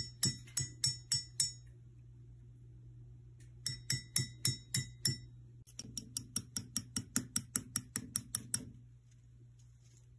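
Rapid clinking taps on glass, each with a short ringing after it. They come in three runs, the last one faster and longer, and stop near the end.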